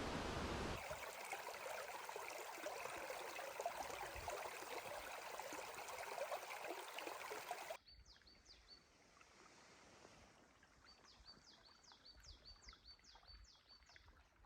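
Stream water flowing over rocks, a steady rushing hiss that changes character abruptly just under a second in. About eight seconds in it cuts to a much quieter scene where a bird calls in repeated short, falling chirps.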